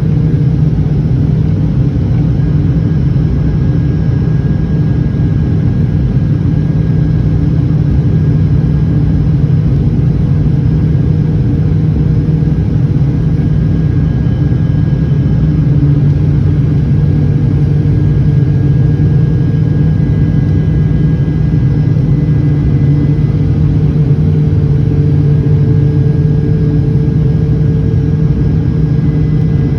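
Airliner cabin noise on the approach to landing: a steady, loud engine drone with a low rumble and several steady hum tones, heard inside the passenger cabin.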